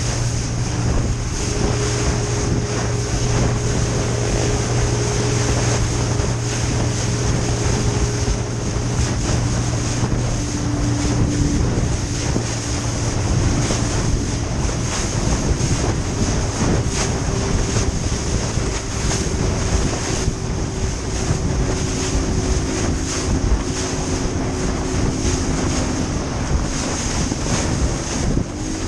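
Small boat's motor running steadily under way, its note shifting slightly a few times, with heavy wind buffeting the microphone and water rushing past the hull.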